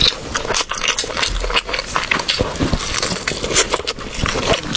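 Close-up eating sounds: a person chewing a mouthful of food with wood-ear mushroom and egg filling, a quick run of soft wet clicks and smacks.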